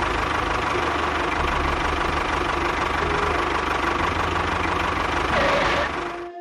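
Engine running steadily at idle with a fast, rattling knock, cutting off abruptly near the end.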